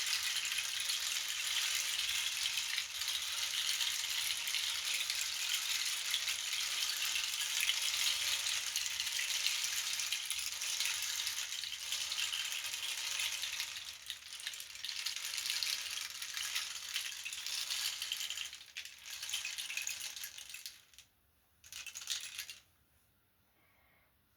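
A percussion rattle sounded steadily as a continuous high, hissing rattle. It thins out and stops about three-quarters of the way in, then gives one short final shake before falling quiet.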